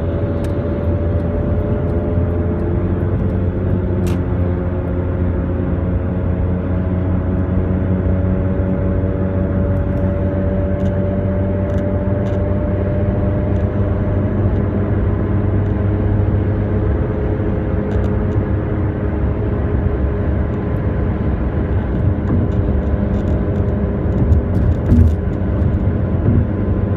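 Audi A4 2.5 TDI being driven, with a steady hum from the right front axle side that the owner says grows louder when accelerating. A low rumble with several faint tones that drift slowly up and down in pitch.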